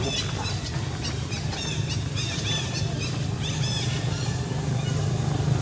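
Many short, high-pitched chirps in quick succession, over a steady low hum.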